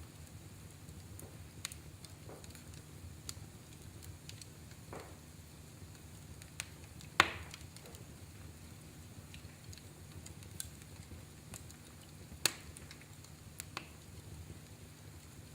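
Wood fire in a fireplace crackling: scattered sharp pops and snaps over a steady low rumble of the flames, with two louder pops, one about seven seconds in and one about twelve seconds in.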